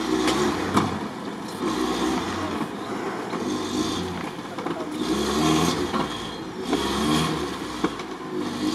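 Lada Niva's engine revving hard in repeated surges, rising and falling several times, as it tries to pull through deep mud and water.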